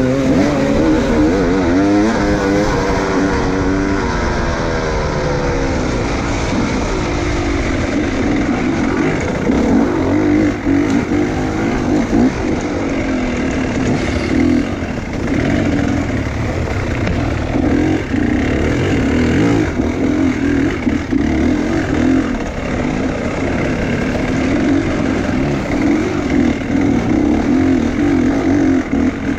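Enduro motorcycle engine running under load, its pitch rising and falling repeatedly as the throttle is worked, with a rising run of revs in the first few seconds.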